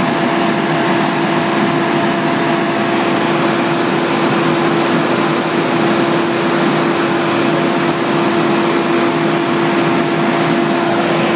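Volvo FH truck diesel engine held at maximum revs, a loud steady drone with one constant pitch and no change in speed. It is running flat out to heat the SCR catalytic converter and burn off oil passed into the exhaust by a failed turbo.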